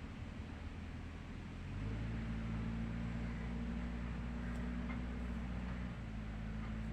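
Bulldozer's diesel engine running steadily. Its note steps up about two seconds in and drops slightly about a second before the end.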